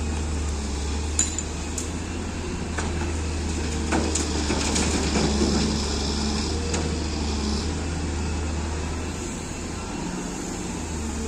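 Cat M318 wheeled excavator's diesel engine running steadily under load, with sharp metallic knocks from the bucket and a rougher stretch as soil is worked and dumped into a truck.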